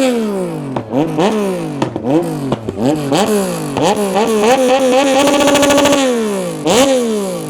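A car engine revved hard through a loud aftermarket exhaust, its pitch climbing and falling back again and again. About five seconds in it is held at high revs for a second, then drops away, with one last rev near the end.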